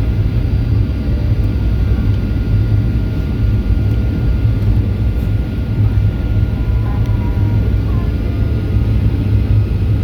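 Boeing 737-800 in flight, its CFM56 jet engines and airflow heard inside the cabin as a steady, loud low rumble with faint steady whines above it.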